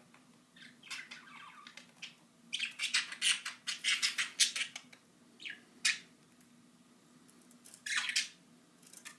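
Pet budgies squawking and chattering: a rapid flurry of sharp calls from about two and a half to five seconds in, then a few single calls near six and eight seconds.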